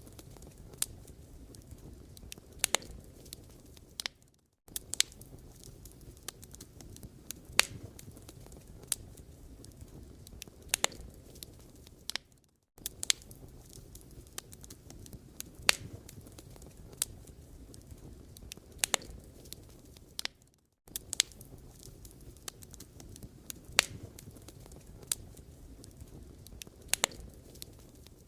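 Firewood burning and crackling: irregular sharp pops and snaps over a low steady hiss and rumble, broken by a short gap about every eight seconds.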